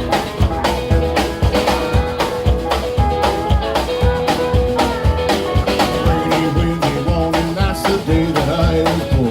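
Live country band playing an instrumental passage: electric guitar over a drum kit keeping a steady, fast beat.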